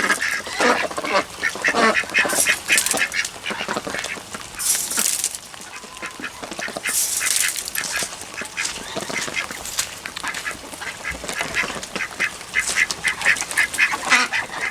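A flock of Khaki Campbell ducks quacking in rapid runs of short calls, busiest near the start and again near the end, with a couple of short bursts of hiss a few seconds in.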